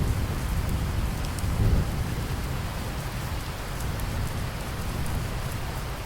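Steady heavy rain with a low rumble of thunder that swells near the start and again at just under two seconds, then eases.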